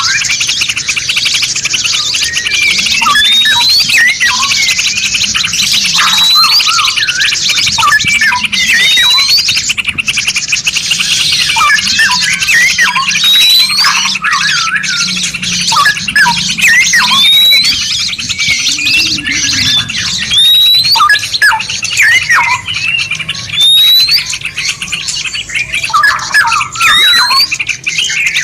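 Layered songbird song mix used to train caged birds: a continuous high, rapid trilling chatter, over which a rising whistle repeats every two to three seconds, with many short chirps at a lower pitch.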